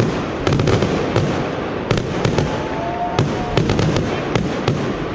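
Aerial fireworks going off in a finale: an irregular string of sharp bangs and crackles, several a second, over a continuous noisy background.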